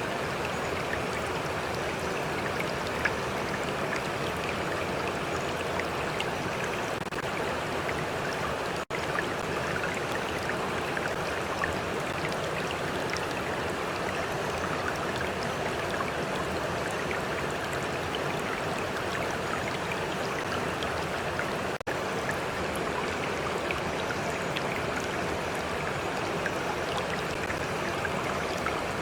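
Stream water flowing steadily, with small splashes and trickles. The sound cuts out for an instant twice, about 9 seconds and 22 seconds in.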